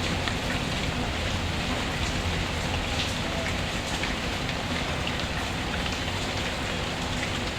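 Steady rain falling, mixed with the faint crackle of a wood fire in a fireplace, with a few small ticks and pops.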